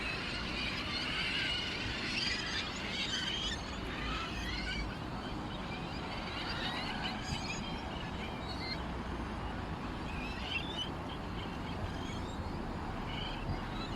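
Small birds chirping and twittering, many short overlapping calls, busiest in the first few seconds and sparser after, over a steady low background rumble.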